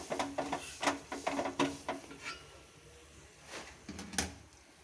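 Kitchen pots and utensils clinking and knocking, a quick run of clicks at first, then two sharp knocks near the end, as a pan is handled on the stove.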